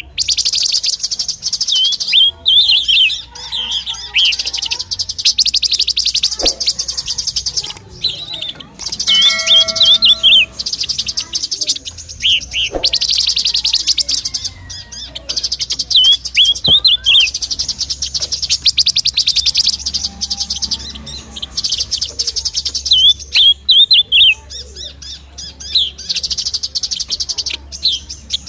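Oriental magpie-robin (kacer) song, played as a tutoring recording for cage birds: long, loud, rapid buzzing trills alternate with short runs of sharp whistled chirps.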